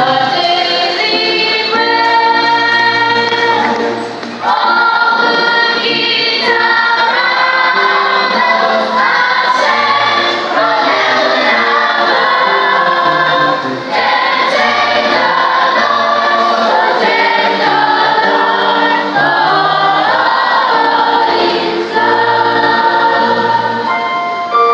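A choir singing a gospel song with keyboard accompaniment, held chords changing every second or two.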